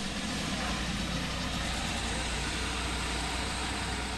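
Bus engine running steadily with a low, even hum.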